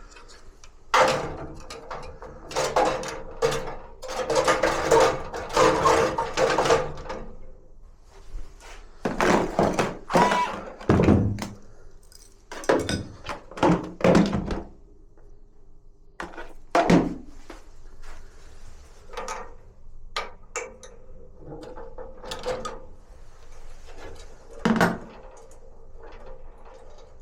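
Irregular knocks, clicks and clatter of parts and tools being handled, in clusters with quieter gaps between them.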